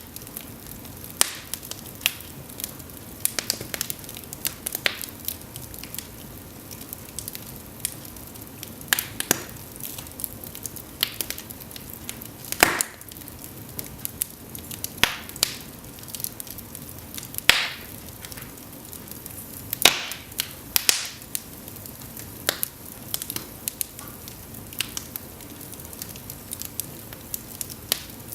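Cedar burning in an open fireplace: a soft steady hiss with frequent irregular crackles and sharp pops, a handful of them much louder than the rest.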